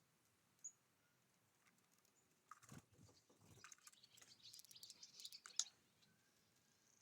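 Small birds at a feeder, faint: one short high chirp just under a second in, then a few seconds of soft clicking and rustling from pecking and shuffling at the seed, ending with a sharper click.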